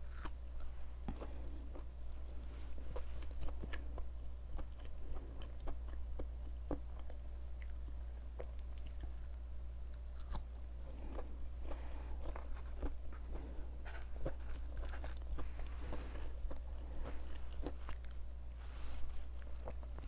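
Close-up chewing and biting of crispy breaded vegan fried chicken nuggets: repeated crunches and wet mouth sounds, with a steady low hum underneath.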